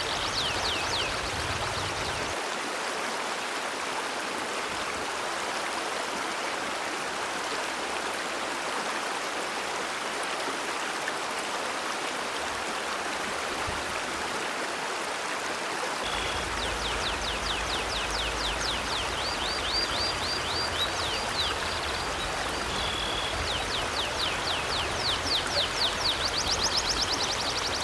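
River water flowing in a steady rush. Rapid, high chirping from a bird comes in briefly at the start and again from about halfway through.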